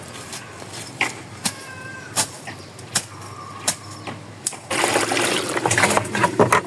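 A few sparse knocks, then about two-thirds of the way in, liquid starts pouring into a cooking pot with a loud, steady rush.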